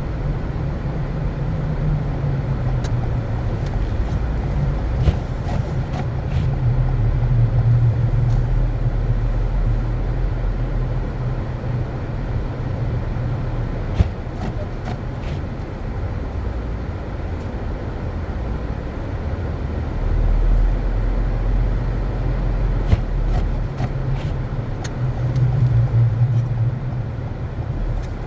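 Car driving on snow-covered roads: a steady low rumble of engine and tyres that swells and eases, with a few scattered sharp clicks.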